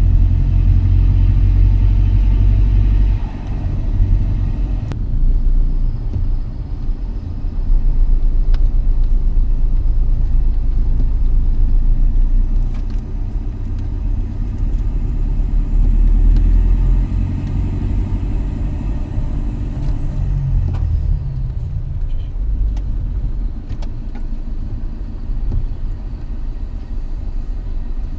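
A car driving on a road: a steady low engine and road rumble that eases off slightly about twenty seconds in.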